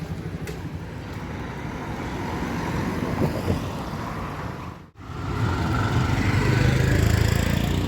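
Steady road-vehicle and traffic noise, a low rumble with no clear engine note. It cuts out abruptly for a moment about five seconds in, then carries on slightly louder.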